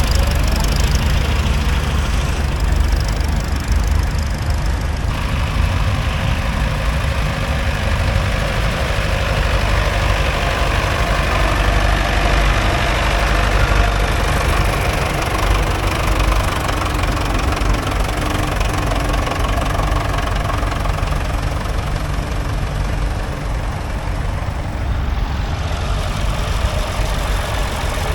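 Vintage agricultural tractor engines running steadily.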